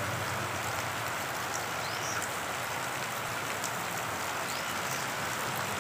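Steady heavy rain falling on a road and vegetation, an even hiss.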